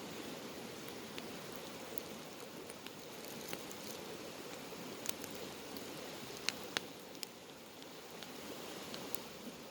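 Campfire burning: a steady rushing hiss of the flames with scattered sharp crackles and pops from the burning wood, a couple of louder snaps a little past the middle.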